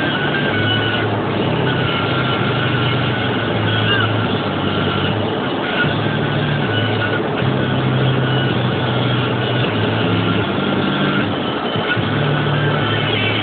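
Steady road and engine noise of a moving car heard from inside, with low notes shifting in pitch every second or so underneath, as from radio music.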